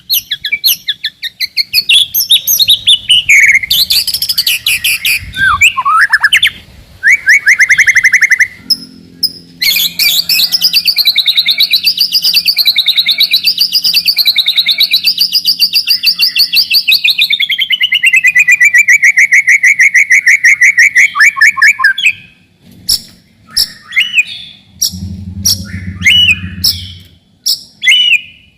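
White-rumped shama (murai batu) singing in fast, tightly packed phrases. In the middle comes one long rapid trill that wavers up and down in pitch and then slides lower, followed near the end by short, sharp separate notes.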